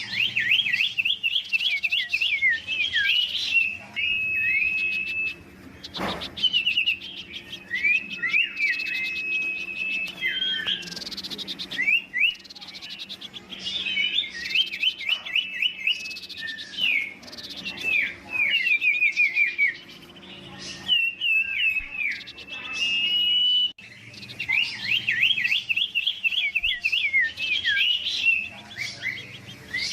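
Huýt cô decoy songbird singing competitively in quick runs of short, downward-sliding whistled notes, with some longer held whistles, broken by short pauses. A single sharp click about six seconds in.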